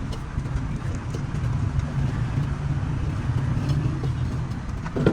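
An engine running steadily with a low, even hum over general roadside noise.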